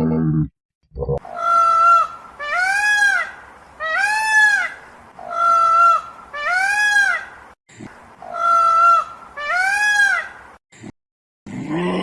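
A large bird's loud, drawn-out calls, repeated about every second and a half. Each lasts about a second, some held on one pitch and some rising then falling.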